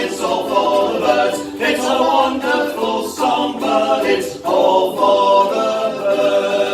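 A group of voices singing in harmony without clear accompaniment, then holding one long chord from about five seconds in.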